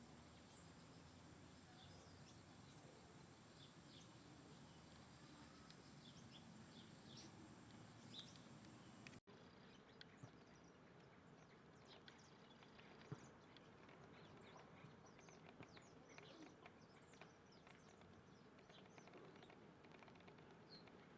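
Faint field recording of small birds giving short, scattered chirps over low background noise, with a sudden break about nine seconds in where the background changes.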